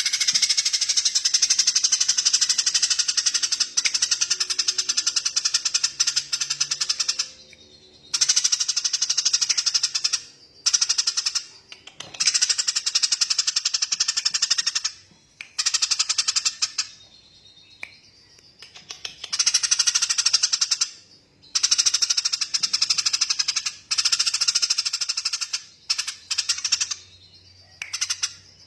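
A small songbird's very fast rattling trill, given in repeated bursts of one to several seconds with short pauses between; the first burst is the longest.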